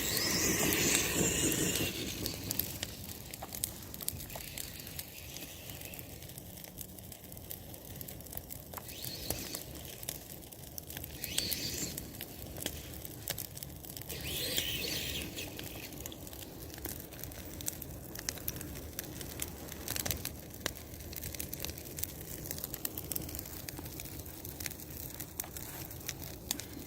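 Bonfire burning, with many scattered sharp crackles and pops over a steady hiss, louder in the first two seconds.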